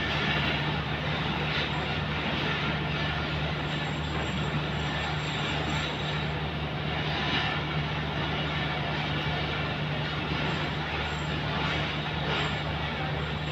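Diesel-hauled passenger train rolling slowly past, a steady low engine drone over an even rumble of wheels and track.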